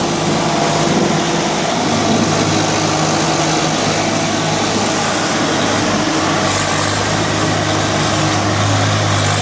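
Tractor diesel engine running steadily, a continuous low engine hum under a rough noise.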